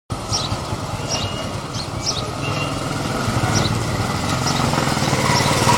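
A motor vehicle's engine running steadily and growing gradually louder, with a few faint high chirps above it.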